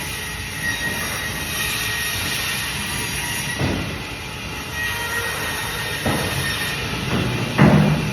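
Band saw running with a steady whine while cutting fish, with a few dull thumps, the loudest near the end.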